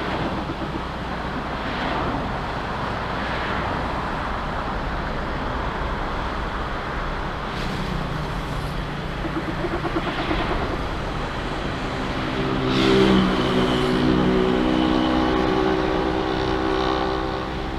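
Loud, steady engine noise without a break. About twelve seconds in, a deeper humming engine tone builds and is loudest around thirteen seconds before easing slightly.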